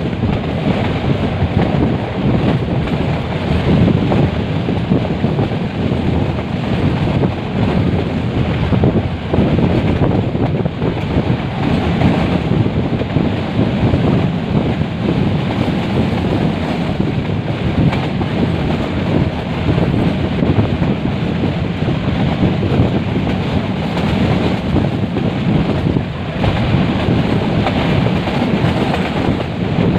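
Metre-gauge passenger train running steadily, with wind buffeting the microphone.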